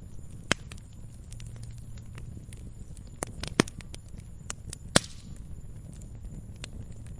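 Wood fire crackling in a fireplace: a low steady rumble of flames with irregular sharp pops and snaps, the loudest about five seconds in.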